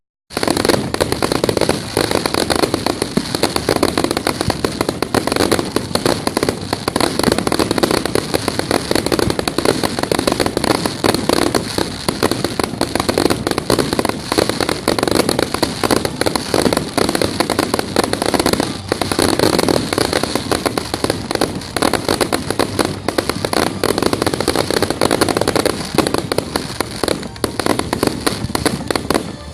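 Fireworks going off in a loud, dense, continuous crackle of rapid pops for the whole stretch, as in a pyrotechnic finale.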